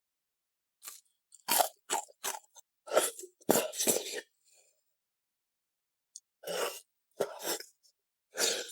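Close-miked eating sounds: crunchy bites and chewing in short, sharp bursts, falling into two clusters with silent gaps between them.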